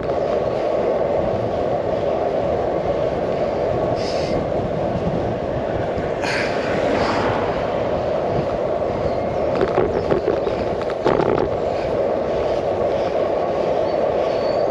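Steady rumble of road and wind noise picked up by a handlebar-mounted GoPro as the bicycle moves along the road, with a few short rattles about two-thirds of the way through.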